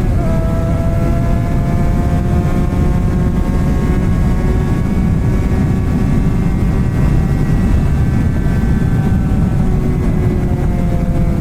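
Suzuki GSX-R600 K7 inline-four with a straight-piped M4 exhaust and no catalytic converter, running at a steady cruise with its pitch drifting slowly, and a brief dip in pitch near the end. Heavy wind rumble on the microphone.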